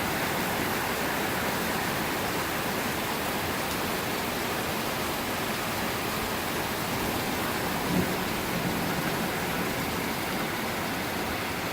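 Heavy rain pouring down in a thunderstorm downpour, a steady dense hiss.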